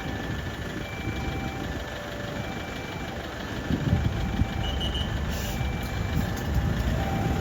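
Railway level-crossing warning alarm sounding, an electronic signal alternating between two tones roughly every 0.7 seconds, over the low rumble of engines idling.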